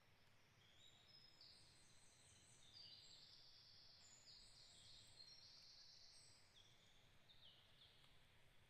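Faint birdsong: a busy run of high, overlapping notes over a soft background hiss.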